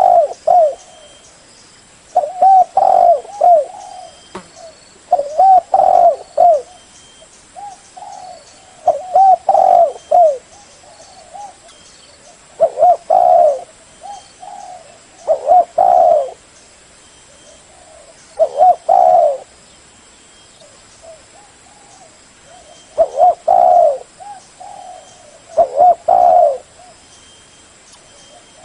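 Spotted dove cooing: short phrases of a few low, rounded notes, repeated about every two to three seconds, with one longer pause midway.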